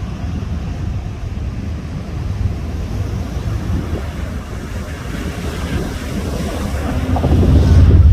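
Surf washing on a beach with wind buffeting the microphone, a steady low rumble that swells louder near the end.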